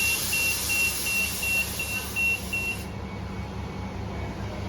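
A vehicle's warning beeper sounding a steady high beep about two and a half times a second over a loud hiss of escaping air, both stopping about three seconds in. An idling engine hum goes on underneath.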